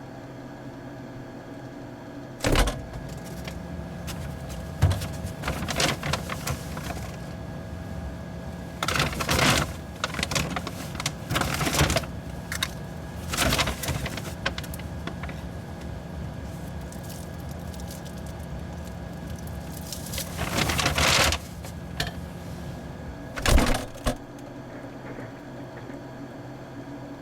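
A steady electrical hum with a few fixed tones, the kind of a running refrigerator, broken from about two seconds in until near the end by a string of irregular clatters, knocks and rustles, as of things being handled; the loudest come about two seconds in and near the end.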